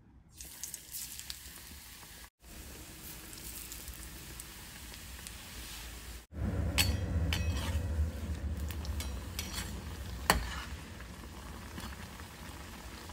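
Gram-flour-battered bread pakoras sizzling as they deep-fry in hot oil, louder from about six seconds in, with a few clinks of a metal slotted spoon against the pan, the sharpest about ten seconds in. The sizzle drops out briefly twice.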